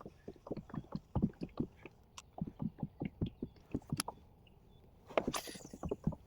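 Kayak on the water: a run of quick, irregular low knocks and sloshing against the hull, with a brief rush of splashy noise about five seconds in.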